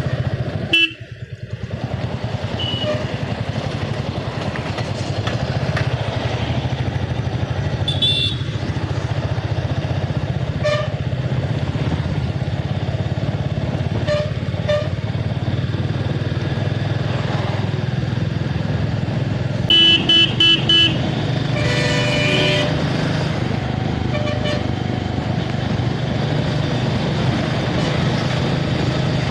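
Motorcycle running steadily on the road, with a vehicle horn honking in a quick run of short beeps about twenty seconds in and another horn sounding about two seconds later.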